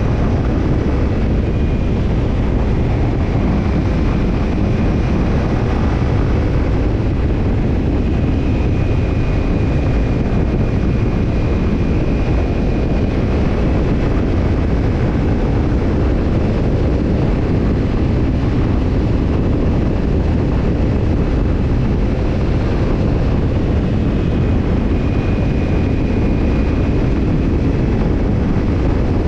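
Kawasaki Ninja 250 parallel-twin engine running through a BEET NASSERT Evolution Type II titanium slip-on muffler, holding a steady, even note with no big changes in revs.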